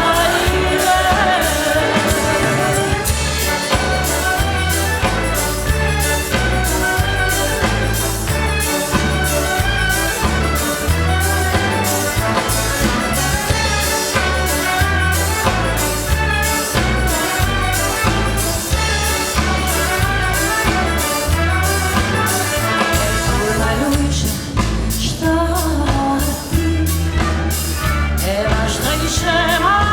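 Orchestral accompaniment to a song, with a steady beat and pulsing bass under a sung melody.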